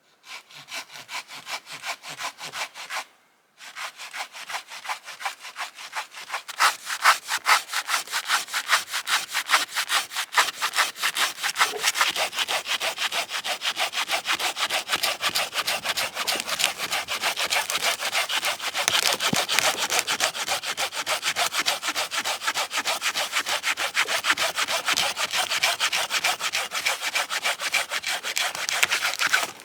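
Hand saw cutting through wood with steady back-and-forth strokes, stopping briefly about three seconds in and then carrying on in a long, even run.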